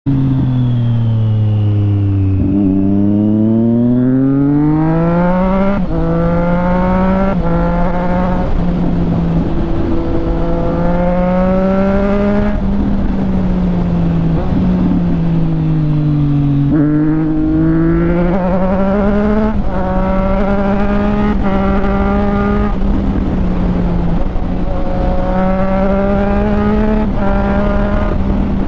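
Triumph Street Triple 765 RS inline three-cylinder engine accelerating through the gears. The pitch climbs, then falls briefly at each of several quick upshifts in a row. The revs drop away in the middle as it slows, then it pulls up through the gears again near the end.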